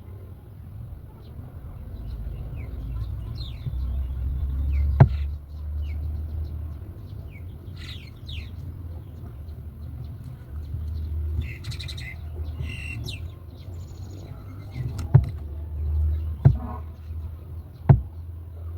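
Birds chirping with many short calls over a steady low rumble. A few sharp knocks or taps stand out, the loudest events in the stretch.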